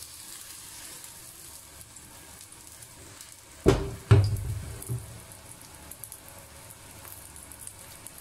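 Egg and spring onion batter pancake sizzling quietly in oil in a wok. There are two sharp knocks about four seconds in as the wok is moved on the burner grate.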